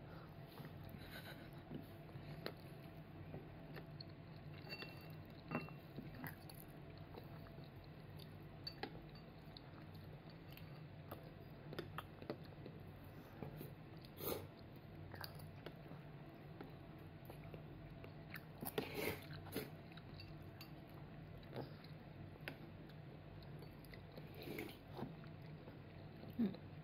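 A toddler chewing and eating, with scattered clicks and taps of a metal spoon against a ceramic cup. A steady low hum runs underneath.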